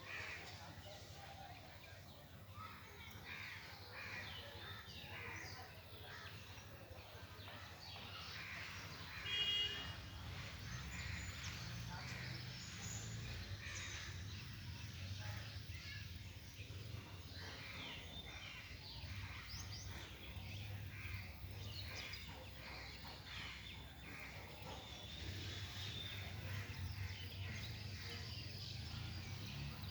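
Birds calling, many short calls scattered throughout over a steady low hum. A brief louder pitched sound stands out about nine seconds in.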